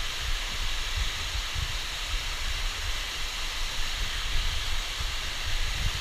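Waterfall's steady rush of falling water, with an uneven low rumble underneath.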